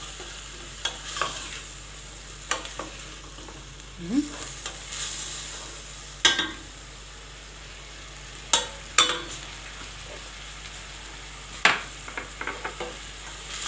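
Green fava beans and garlic frying in ghee in a pot, sizzling steadily, while a spoon stirs them and knocks against the pot several times, the sharpest knocks a little after the middle and near the end.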